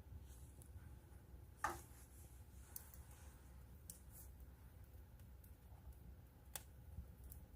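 Faint wood fire crackling: a few sparse pops and snaps, the sharpest about a second and a half in, over a low steady hum.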